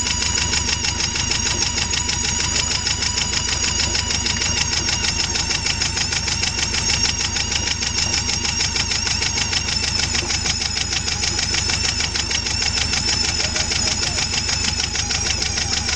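Beta 14 marine diesel engine running steadily, driving a new PRM-60 marine gearbox, with a rapid even beat and a high steady whine over it: the strange sound that the owner puts down to the gearbox.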